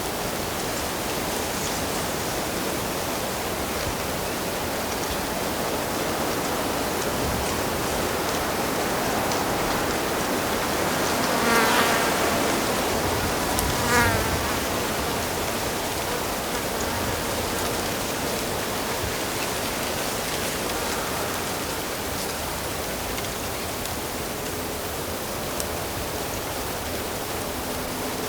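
Steady rush of flowing stream water, with a flying insect buzzing close past the microphone, once about twelve seconds in and again briefly two seconds later.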